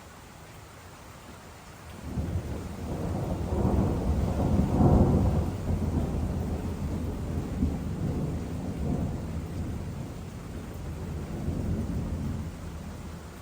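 Rolling thunder: a low rumble starts about two seconds in, builds to its loudest a few seconds later, then rolls on and slowly fades.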